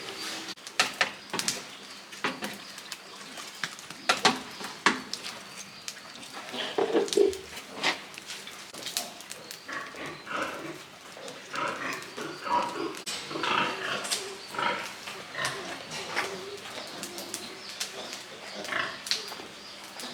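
Pigs grunting and squealing in short bursts, mixed with sharp clicks and knocks.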